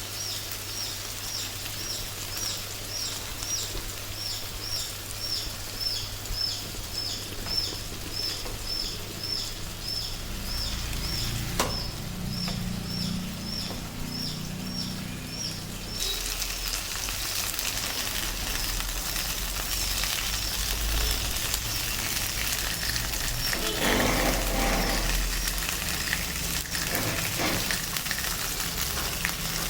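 Chicken frying in a pan: a dense, steady sizzle that starts suddenly about halfway through. Before it, a high chirp repeats two or three times a second.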